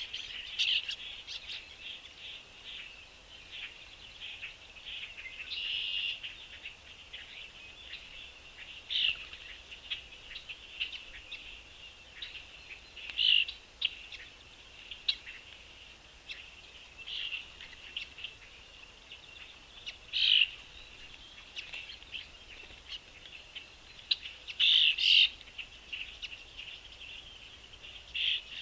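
Small birds chirping: a near-continuous run of high chirps with a handful of louder single calls standing out.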